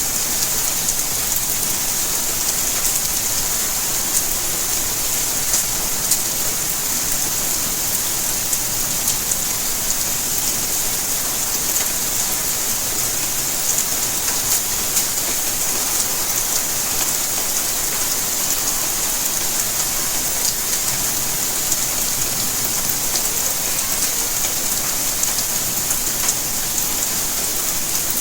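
Steady rainfall, a continuous hiss with the ticks of many individual drops landing on surfaces.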